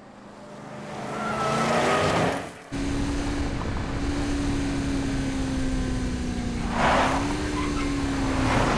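BMW 740i's V8 engine at high revs as the car speeds towards the camera, its note climbing and growing louder, breaking off abruptly at about two and a half seconds. It then runs on as a steady hard-driven drone that swells and rises briefly about seven seconds in, with a short burst of tyre squeal.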